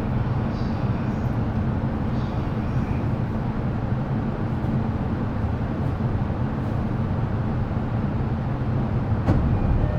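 Interior running sound of a JR East E233 series electric train: a steady low rumble of wheels on rail, with one sharp click about nine seconds in.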